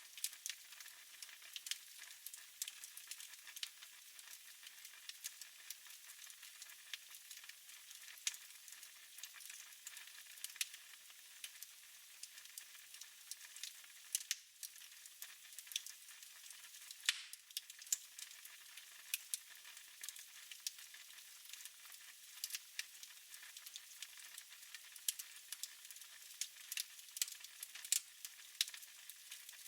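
Fire in a fireplace crackling: irregular sharp pops and snaps over a soft, steady hiss.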